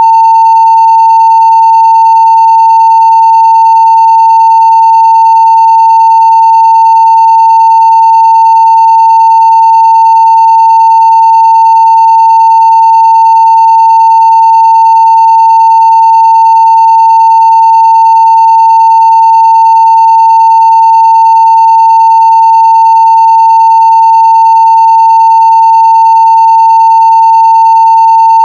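Steady 900 Hz sine-wave test tone at full scale (0 dB), one pure pitch held unchanging and loud throughout.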